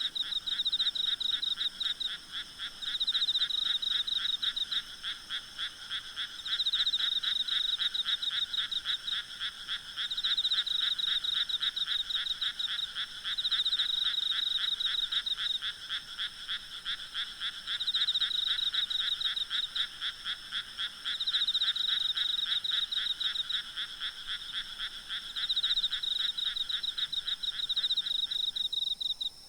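A night chorus of frogs croaking in rapid pulsed trills, in bouts of a few seconds each, over a steady high trilling of insects. The frog calling cuts off abruptly just before the end.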